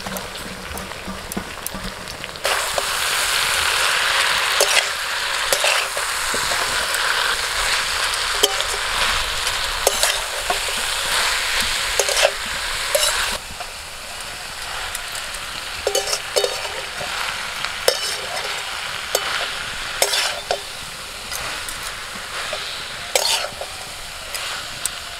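Freshly shredded cabbage sizzling in a hot metal wok as it is tossed and stirred with a metal spatula, with frequent clicks and scrapes of the spatula against the pan. The sizzle swells a couple of seconds in and eases off about halfway through.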